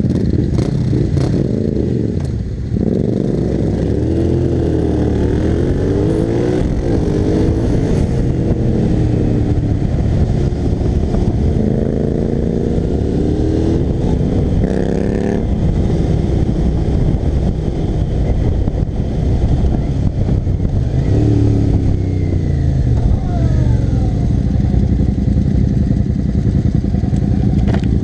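Twin-cylinder motorcycles (Yamaha MT-07s, Kawasaki ER-6n, Suzuki SV650S) on aftermarket exhausts, riding together; the engines rev up and drop back again and again as they accelerate and change gear.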